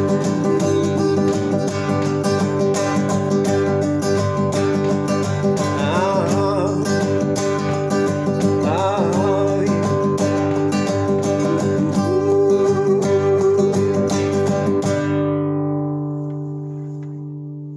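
Acoustic guitar strummed fast and steadily, with a voice singing wavering, drawn-out notes about six and nine seconds in. Near the end the strumming stops and the last chord rings out and fades.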